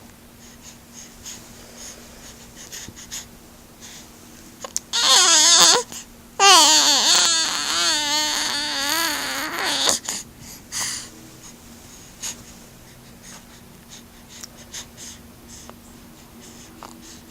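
A cat giving two drawn-out, wavering yowls about five seconds in, a short one and then a longer one of about three seconds. Faint small clicks, like chewing on a blanket, come before and after.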